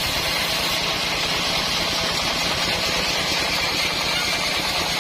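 Band sawmill running steadily: its motor drone and the hiss of the band saw blade, unchanged throughout.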